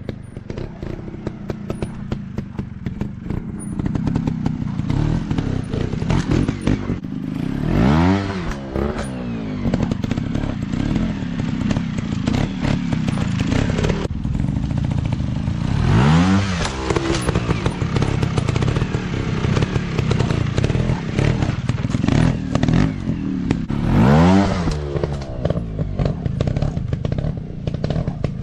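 Dirt bike engine running with a rough, clattering note, its pitch climbing sharply and falling back three times, about eight seconds apart.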